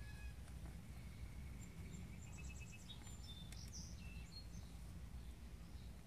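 Faint high chirps of small birds in the background, including a quick run of repeated notes about two to four seconds in, over a low steady rumble.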